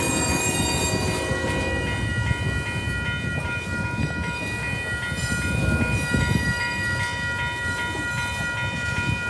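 BNSF freight train's cars rolling through a level crossing, with a steady low rumble and wheel clatter. Over it a crossing warning bell rings continuously at a high pitch.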